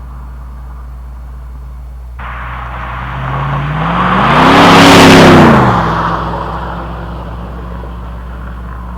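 1999 Chevrolet Silverado's 5.3L LM7 V8 through a Cherry Bomb straight-through muffler, idling, then revved once: the exhaust note climbs and gets loud for about a second and drops back to a steady idle.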